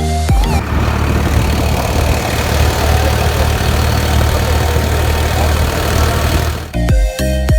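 Tractor engine running steadily under a dense rumble of travel noise while towing a loaded trolley; background music cuts in again near the end.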